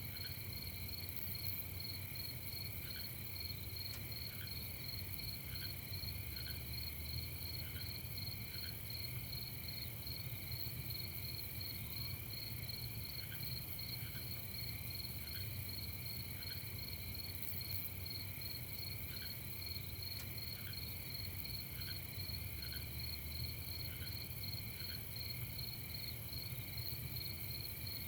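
A chorus of night insects trills steadily at two pitches, with short, fainter chirps coming in irregular runs. A steady low rumble sits beneath.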